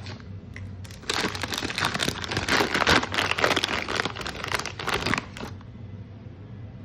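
Crinkling of a plastic snack packet being handled and opened: dense crackling that starts about a second in and stops near the end.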